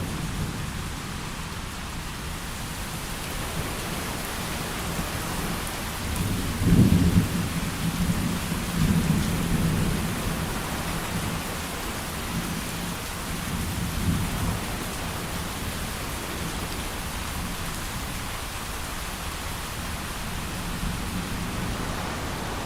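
Steady heavy rain with a roll of thunder: a low rumble builds about six seconds in, peaks around seven seconds and rolls on in further swells until about fifteen seconds, then the rain alone continues.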